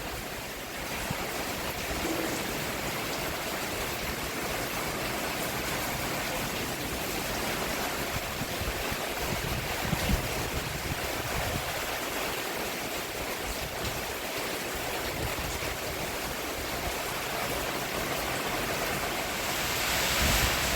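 Steady rain falling on a roof, an even hiss of many drops without pause.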